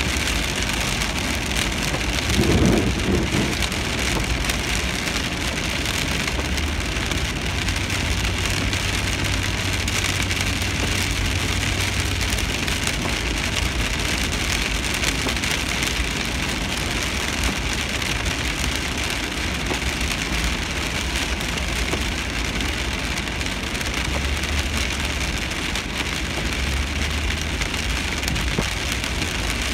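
Steady rain on a moving car, heard from inside the cabin: a continuous hiss of rain on the roof and windscreen and tyres on the wet road, over the car's low engine hum. A short louder rush comes about three seconds in.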